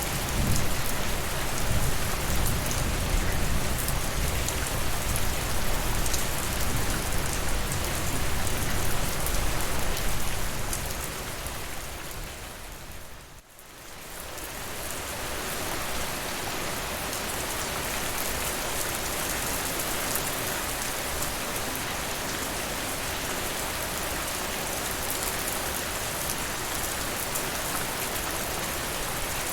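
Steady rain falling on a surface, an even hiss of drops, with a heavier low rumble for the first ten seconds that fades away; the sound dips briefly about halfway through, then the rain continues evenly.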